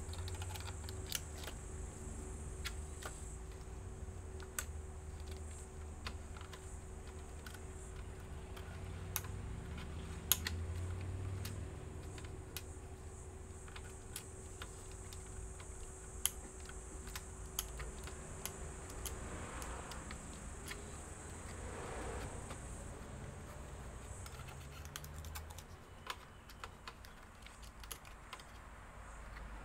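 Scattered small clicks and taps of plastic and metal laptop parts being handled and fitted, irregular and a few per second at most, over a faint steady hum.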